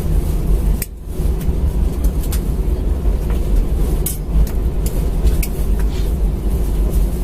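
Airbus A320 cabin noise as the airliner rolls on the ground after landing: a loud, steady low rumble of engines and wheels, with scattered clicks and rattles from the cabin.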